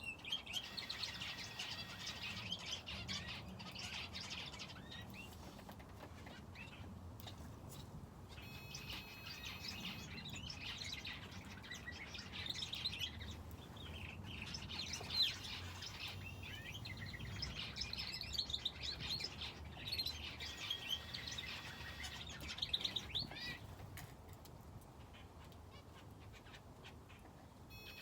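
Aviary finches and a canary chirping and twittering in busy bursts, with lulls about a fifth of the way in and near the end, and one sharp tick about halfway.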